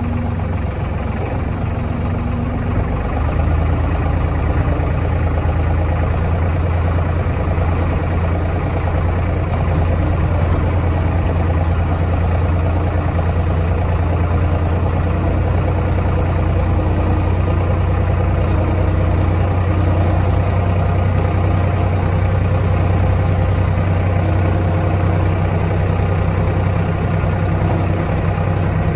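Kioti DK65 tractor's diesel engine running steadily, rising a little in level about three seconds in and then holding steady.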